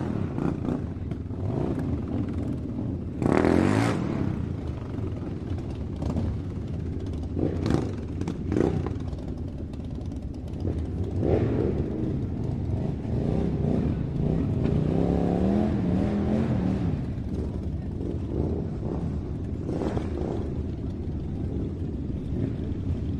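A small motor running with clatter and several knocks. Near the middle a whine rises and falls as it speeds up and slows.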